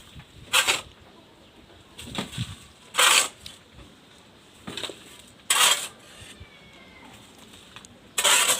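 Sand being scooped and tipped into a bucket: about six short scraping rushes of sand, a second or so apart.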